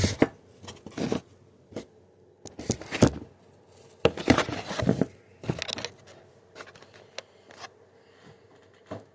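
Irregular knocks, scrapes and rustles of the recording device being handled, turned around and repositioned.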